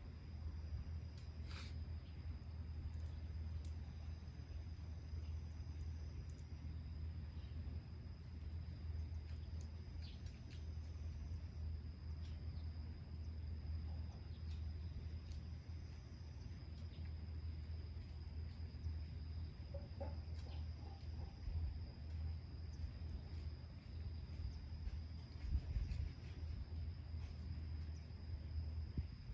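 Insects chirping in a steady, high-pitched rhythm of about one and a half pulses a second over a continuous high drone, with a low rumble underneath and a few faint clicks scattered through.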